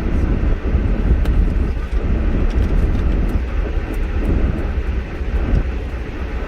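Steady low rumble of a vehicle driving through snow, with a few faint ticks over it.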